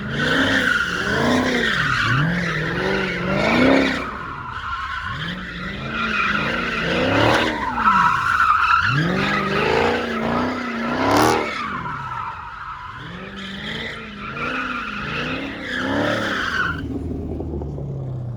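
Car drifting: the engine revs up and drops back over and over while the tyres squeal continuously, the squeal stopping near the end.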